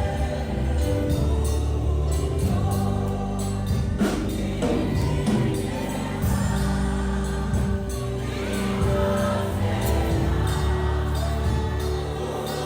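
A choir singing gospel music over accompaniment, with deep bass notes held for a second or two at a time.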